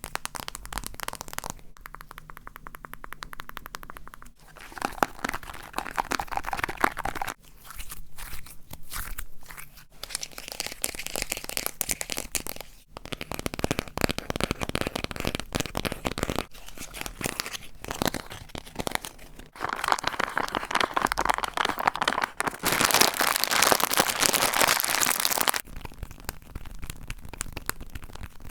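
A quick succession of different close-up ASMR trigger sounds: crunching, crinkling and crackling of objects handled right at the microphone, each lasting a few seconds before switching abruptly to the next.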